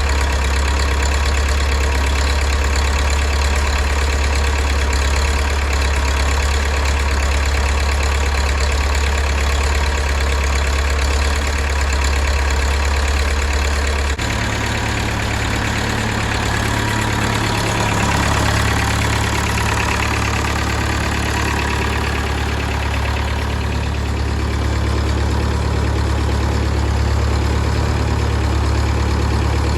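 A 1969 Nuffield 65 hp four-cylinder diesel tractor engine idling steadily just after a cold start at about freezing. About halfway through, the engine speed steps up and holds at the higher idle.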